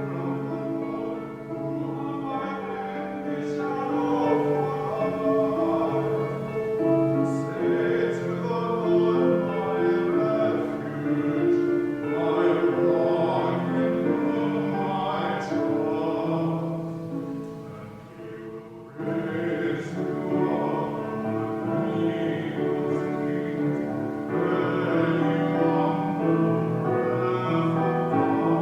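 Classical-style sung music with held notes, a voice with keyboard accompaniment. The music dips briefly about two-thirds of the way through, then resumes.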